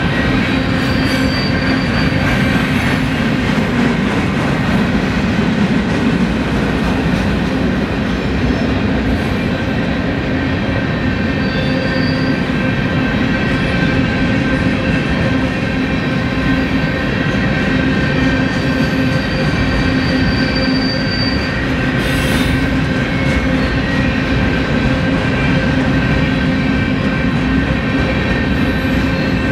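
A train rolling past with a steady, loud rumble of steel wheels on rail. Thin high wheel squeals come in briefly a few times.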